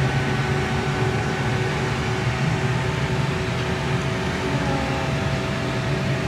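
Passenger train humming from inside the carriage: a steady drone with a few faint held tones over an even rumble.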